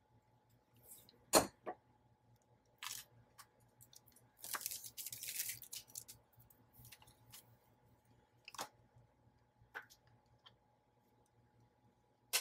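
Handling sounds of a small hand-held hole punch squeezed on a plastic-coated paper piece that it will not cut through: scattered sharp clicks, the loudest about a second and a half in, and a stretch of crinkly rustling in the middle.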